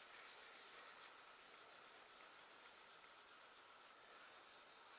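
Faint, steady rubbing of a fingertip blending charcoal on textured drawing paper to soften it.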